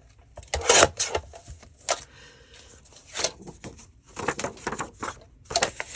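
Paper being handled: a string of irregular rustles, brushes and light taps, the loudest a little under a second in.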